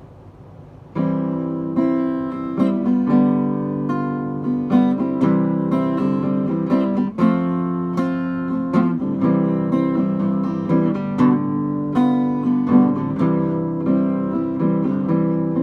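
Acoustic guitar playing the intro to a song, strummed chords starting about a second in.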